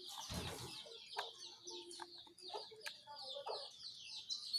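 Lesser shortwing (cingcoang coklat) singing, a rapid run of high, quick descending chirps repeated throughout.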